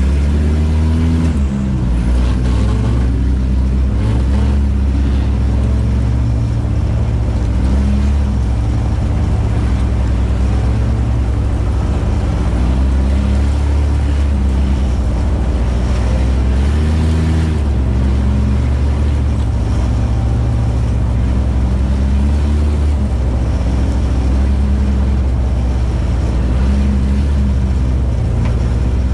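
Four-cylinder race car engine heard from inside the stripped cockpit, its pitch climbing and dropping every few seconds as the driver accelerates, shifts and lifts through the corners of an ice-racing heat.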